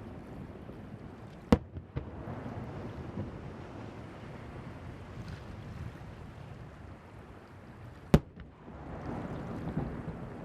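Two sharp fireworks bangs about six and a half seconds apart, the first followed half a second later by a smaller one, over a steady noise of wind on the microphone and surf.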